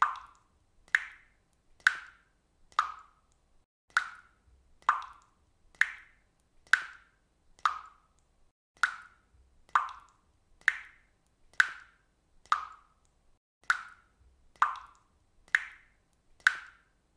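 Faucet dripping into water: single plops falling about once a second in a steady, even rhythm.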